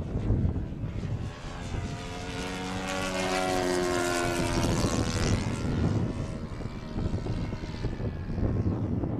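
Radio-controlled model plane's YS 110 supercharged four-stroke glow engine with a two-blade propeller making a flyby: the engine note grows louder for a few seconds, then drops in pitch and fades as it passes. Wind buffets the microphone throughout.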